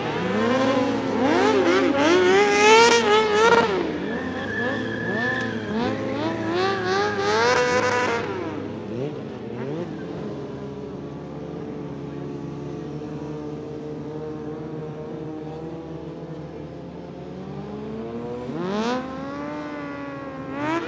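Motorcycle engines being revved repeatedly, pitch sweeping up and down, then settling to a steadier idle and revving up again near the end.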